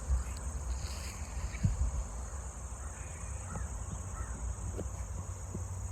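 Steady high-pitched drone of insects over a low wind rumble, with a few faint short animal calls in the middle.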